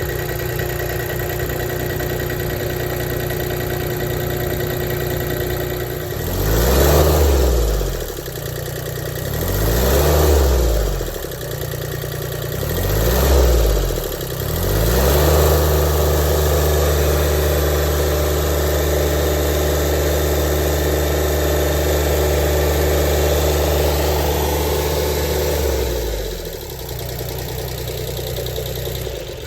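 Small diesel engine of a Toro mower tractor running again after air was bled from its fuel line. It idles, is revved up and let down three times, is held at high speed for about ten seconds, then drops back to idle near the end.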